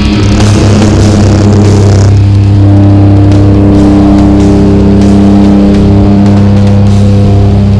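Jump plane's engines droning steadily, a constant low hum with steady overtones that settles in about two seconds in.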